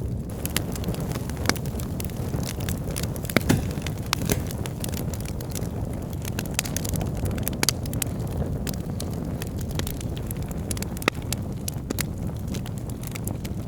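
Wood logs burning in a fireplace: a steady low rumble of flame with frequent crackles and pops, the loudest snap about three and a half seconds in.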